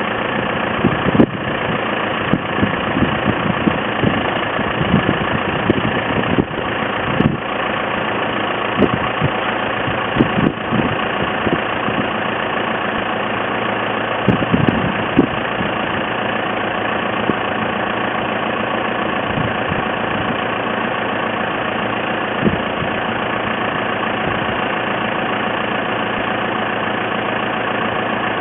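Tractor engine idling steadily, with a series of short knocks and clunks scattered through the first half and one more later on.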